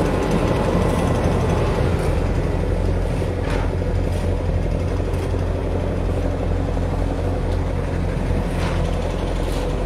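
Steady low engine rumble, with a few faint short noises over it.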